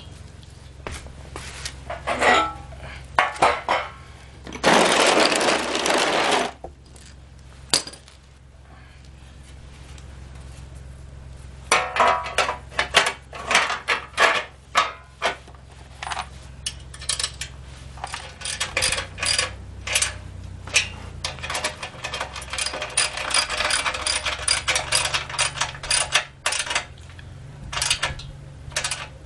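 Metal clinks and clicks of tools and parts being handled, coming thick and fast in the second half, with a short rushing hiss about five seconds in.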